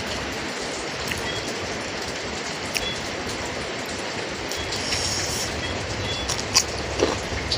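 Steady rain, an even hiss of falling rain, with a few small sharp clicks over it.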